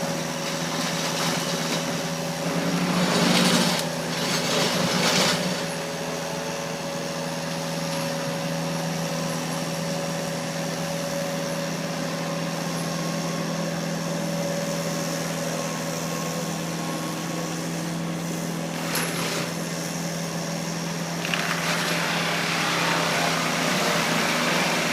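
Skid steer with a forestry mulching drum running steadily, its engine holding an even pitch. Two louder, noisier stretches come a few seconds in and again near the end.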